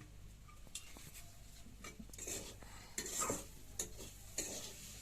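A utensil stirring and scraping in a metal cooking pot, with irregular clinks, the loudest about three seconds in.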